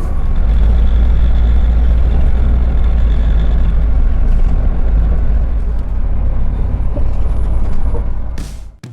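City bus running, a steady low rumble of engine and road noise that cuts off abruptly near the end.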